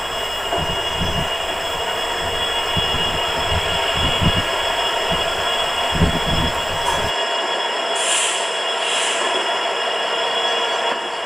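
Running noise heard inside a moving Indian Railways sleeper coach: a steady noise with high whining tones over it. Irregular low rumbles and knocks from the wheels and coach on the track last until about seven seconds in, then the low rumble drops away abruptly. Two short hisses come about a second apart near the end.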